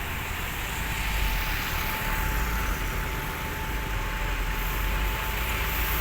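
Diesel engine of a heavy construction machine running steadily, a deep low rumble with a faint steady whine above it.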